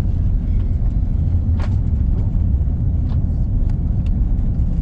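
Cabin noise inside a four-engine Airbus A340-300 rolling on the ground after touchdown: a steady low rumble of engines and wheels on the tarmac, with a few faint rattles.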